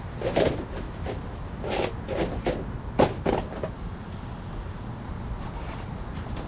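Handling noises from a tent being pitched: a few short clatters and scrapes in the first half, over a steady low rumble.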